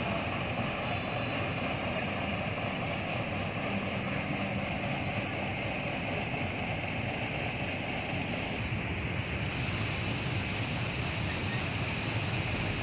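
Steady rumble of a train and road vehicles' engines at a railway level crossing, with an even hiss over it.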